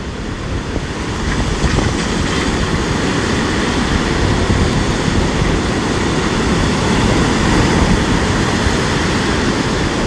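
Storm surf on the sea with strong wind, the wind rumbling on the microphone. The noise swells over the first second or two, then holds steady.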